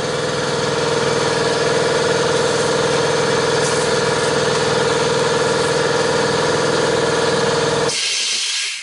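An electric motor runs steadily with a strong whine, clearing lint and debris out of the dryer. It shuts off near the end, and a short rush of air trails off after it.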